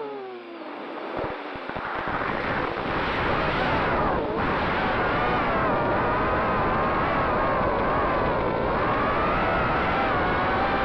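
Racing quadcopter's brushless motors whining. The pitch drops steeply at the start as the throttle comes off, then rises and wavers with the throttle. Wind buffets the microphone underneath.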